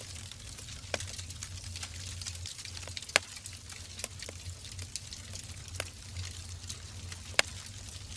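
Wood fire burning in a fireplace: a steady hiss with frequent small crackles and two sharper pops, about three seconds in and about seven seconds in.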